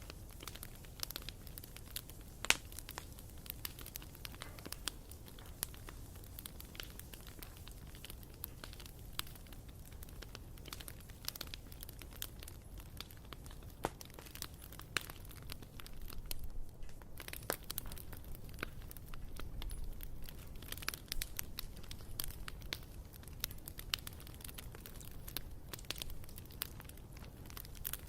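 Bonfire burning, the wood crackling and popping in dense, irregular snaps, with one sharp loud pop about two and a half seconds in. After a brief lull a little past halfway, the crackling comes thicker.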